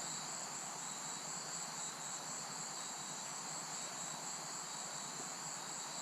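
Rainforest insects, crickets or cicadas, in a steady chorus of two high, continuous buzzing trills.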